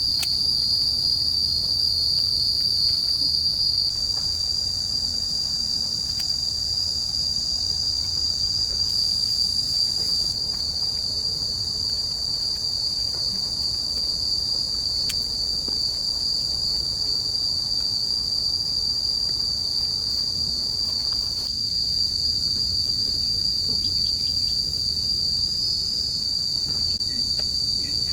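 Insect chorus trilling steadily at one high pitch, over a low steady rumble.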